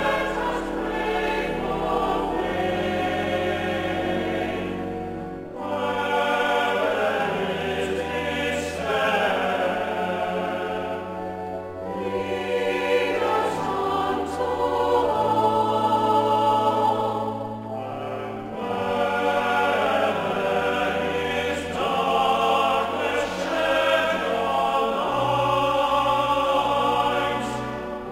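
Cathedral choir singing a hymn in several parts over sustained low held notes, in phrases of about six seconds with brief breaths between them.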